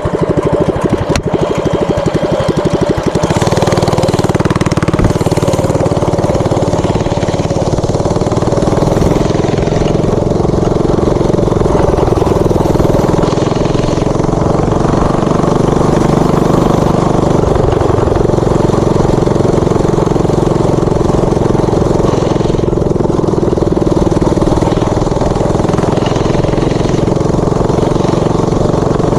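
Tillotson 212 single-cylinder four-stroke mini bike engine running steadily, its note changing about three seconds in and then holding.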